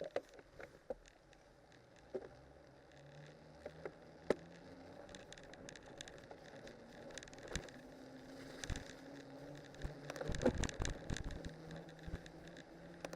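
Cyclocross bike on studded tyres rolling downhill over a winter road, with steady tyre noise and scattered clicks and rattles from the bike over bumps, busiest about ten seconds in.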